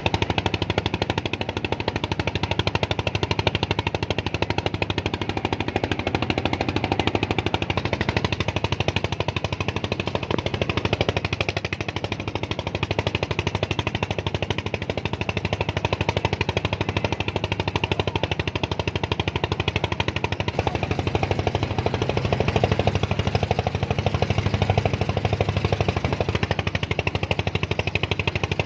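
A small engine running steadily with a rapid, even pulsing.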